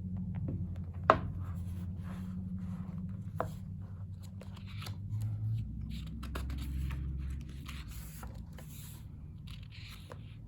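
Pages of a thick photo-paper photobook being turned and handled: irregular rustling and sliding paper with a few sharp taps, the loudest about a second in. A steady low hum runs underneath.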